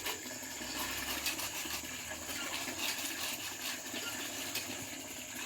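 Steady water noise running without a break, with faint scattered ticks in it.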